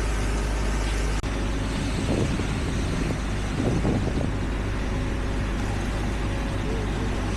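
Heavy diesel construction machinery running steadily, with an abrupt cut in the sound about a second in.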